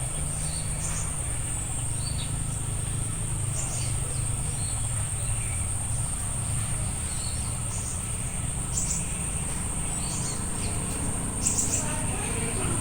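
A steady, high-pitched insect drone, with short high bird chirps now and then over a low background rumble.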